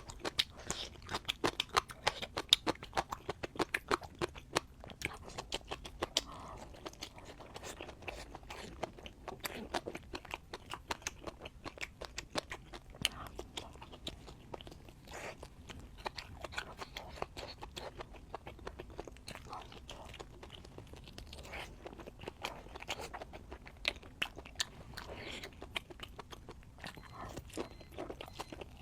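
Close-miked chewing of crunchy food, a dense run of sharp crunches and bites. The crunches are loudest and thickest in the first few seconds, then grow sparser and softer.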